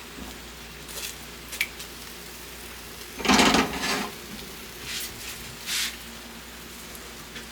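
Steady rain, with several short noisy handling sounds over it; the loudest lasts about a second, starting about three seconds in.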